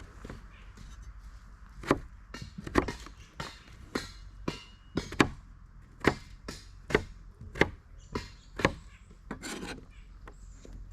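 Repeated chopping on wood: a dozen or more sharp, uneven knocks, about one or two a second, starting about two seconds in.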